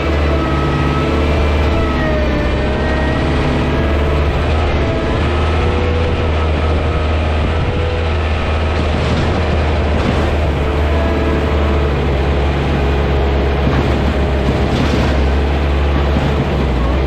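Steady machinery noise on an airliner's apron during unloading: a loud low engine drone with several whining tones that waver slightly in pitch.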